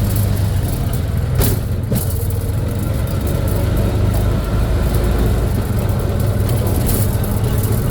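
Road vehicle's engine running with a steady low rumble and road noise, as heard riding along, with a brief rush of noise about a second and a half in.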